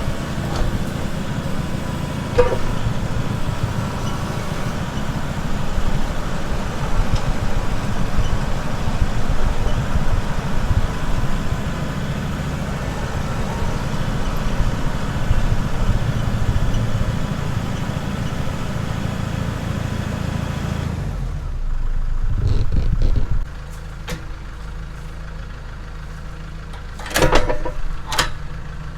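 An engine running steadily with a heavy low rumble. About two-thirds of the way in it drops abruptly to a quieter hum, after a brief louder spell, and a few sharp knocks follow near the end.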